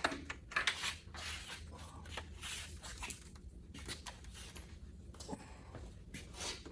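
Plastic front grille of a Chevy ZR2 truck being worked free of the body, with irregular scraping and rubbing of plastic and a few sharp clicks.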